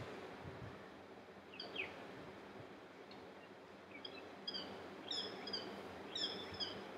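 Faint room noise with birds chirping in the background: short, high chirps that dip in pitch, a few together in the second half.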